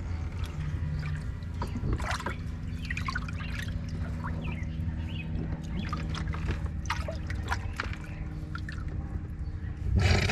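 Water trickling and dripping, with small irregular splashes, over a low steady hum.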